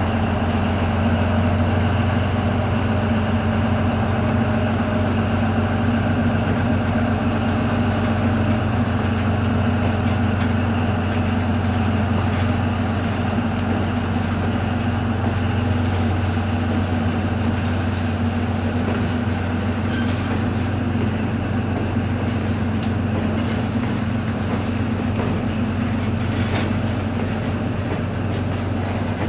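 Diesel locomotive engine idling steadily, under a loud, unbroken shrilling chorus of cicadas.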